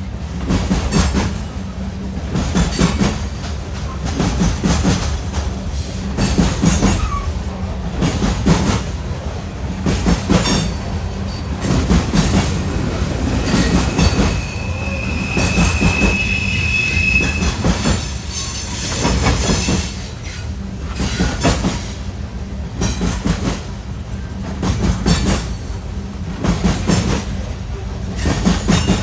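Freight train rolling past, its wheels clacking rapidly over the rail joints, with a brief high-pitched wheel squeal about halfway through.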